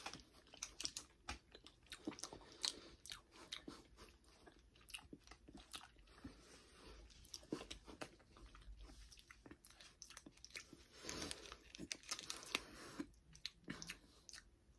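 A person biting and chewing a crisp chocolate snack, with faint, irregular crunches and mouth sounds.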